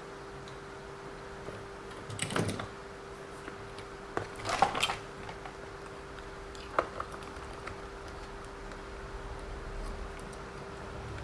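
Light clicks and taps of small plastic and metal RC-car parts being handled while the differential and bearings are fitted back into the gearbox casing, with the loudest cluster of taps a little under halfway through. A steady faint hum runs underneath.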